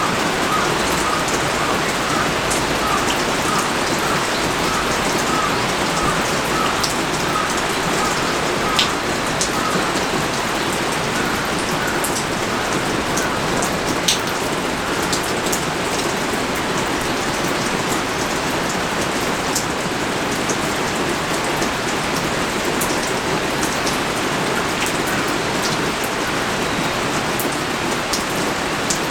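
Heavy rain pouring down steadily, with now and then a single louder drop striking close by.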